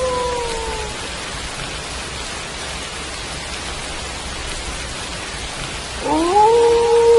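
Steady rain falling, with wolf howls over it: one howl dips and fades out in the first second, and about six seconds in another begins, rising in pitch and then held long and even.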